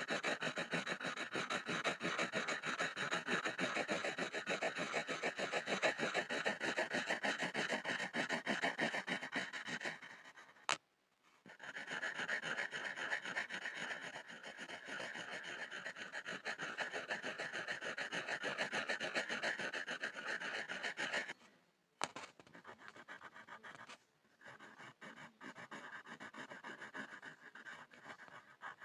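Pencil scribbling on a board: a steady rapid scratching of graphite rubbing back and forth. It stops twice, about eleven and twenty-two seconds in, each time with a single sharp click, then starts again; after the second break it goes on more softly.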